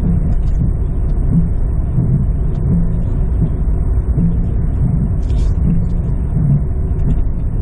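Inside the cab of a lifted two-wheel-drive 1999 Jeep Cherokee XJ coasting off the throttle: a loud driveline and road rumble with a rhythmic squish-squish pulse, like a heartbeat, a little under twice a second. It is the sign of a driveline running at a bad angle after a 3.5-inch short-arm lift, which the shop plans to cure with a shim.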